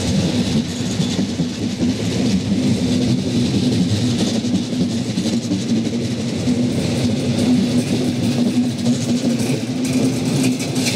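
Double-deck regional push-pull train with a DB class 111 electric locomotive running past along a platform: steady rolling wheel noise with a steady electric hum.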